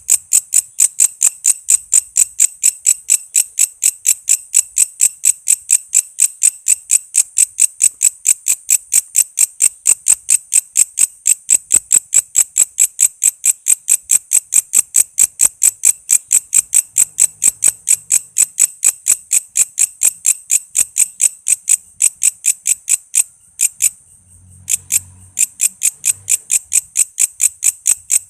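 Walang kece bush cricket calling: a steady train of sharp, high-pitched chirps, about four a second, with a short pause about twenty-four seconds in.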